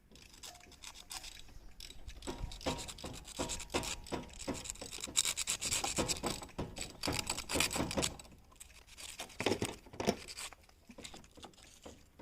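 Rough, irregular rubbing and scraping strokes of sandpaper on a spark plug, scouring off the rust and corrosion that have built up on it so it can be reused.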